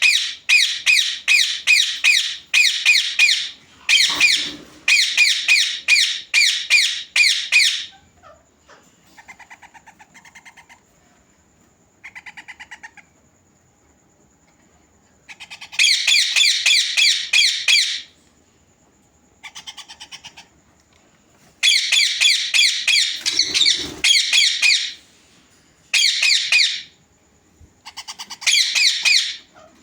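Ringneck parakeet chicks giving rapid, evenly repeated begging calls in loud bouts of a few seconds, with quieter gaps between. The chicks are hungry, their crops only partly filled.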